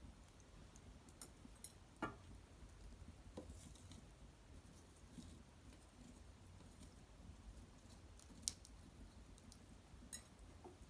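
Small wood fire of cedar branches and bark burning quietly, giving off sparse, faint crackles and sharp pops, the loudest about two seconds and eight and a half seconds in.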